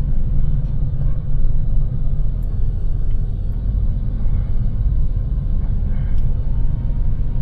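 Steady low rumble of a small box truck driving at highway speed, engine and road noise heard from inside the cab.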